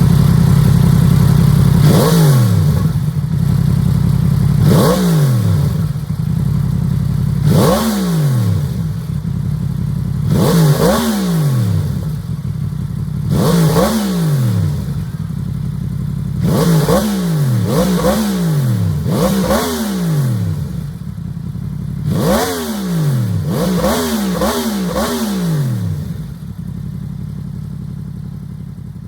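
Yamaha MT-10 SP's inline-four engine through an aftermarket Akrapovič exhaust, revved in place from idle. Single throttle blips come every few seconds, each rising sharply and falling back, then quicker runs of two to four blips before it settles to idle and fades near the end.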